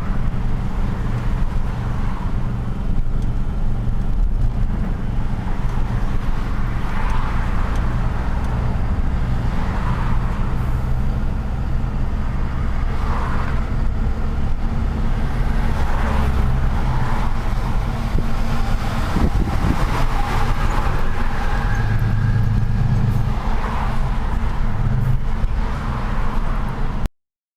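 Truck engine running steadily while driving in city traffic, with road and traffic noise over it; the sound cuts off abruptly near the end.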